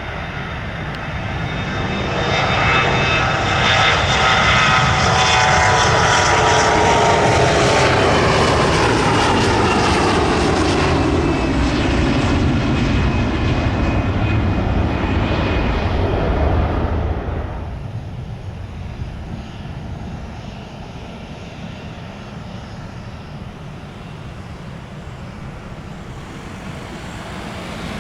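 An aircraft passing close by, its engine tones sliding down in pitch as it goes past. The sound drops off sharply about two-thirds of the way through, leaving a fainter rumble.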